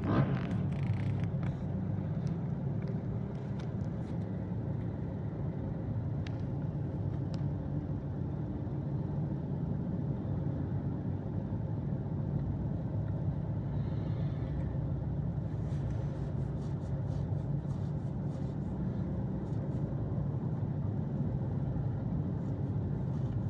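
Several motorcycle engines running together at low revs, a steady low drone that holds at an even level throughout.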